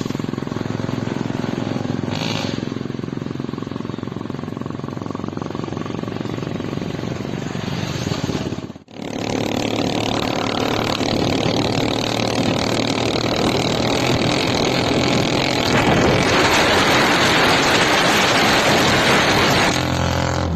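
Motorcycle engine fitted in a homemade car, running steadily. It cuts off suddenly about nine seconds in, comes back, and grows louder and rougher near the end.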